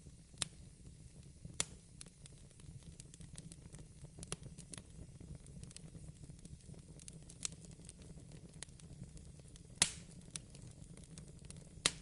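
Wood fire crackling in a fireplace: irregular sharp pops over a low steady rumble, with the loudest pop near the end.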